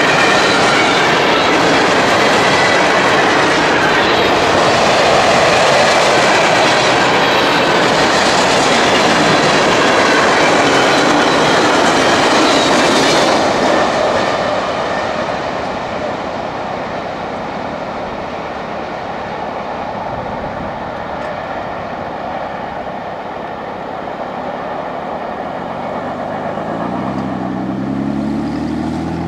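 CSX manifest freight train rolling past, its cars running loud along the rails for about the first half, then dropping off quieter. Near the end a road vehicle's engine speeds up, rising in pitch.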